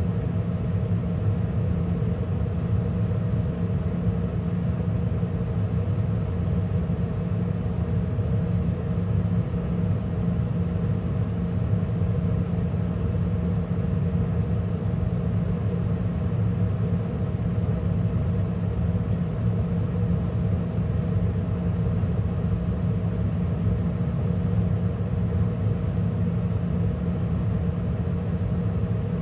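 2013 Carrier gas furnace running steadily in the middle of a heating cycle, with burners lit and the draft inducer and circulation blower both running. It gives a constant low hum with fainter higher tones and no change in level.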